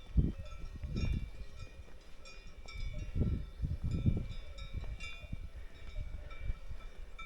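Cowbells on grazing cows clanking irregularly, with a hiker's heavy footsteps thudding on the trail.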